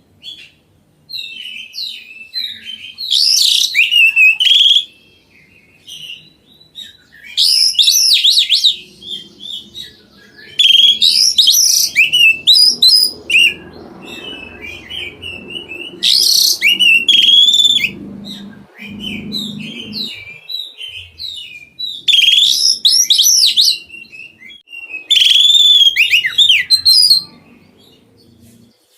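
Oriental magpie-robin (kacer) singing in about six loud bursts of rich, varied, whistled phrases, with short pauses between them.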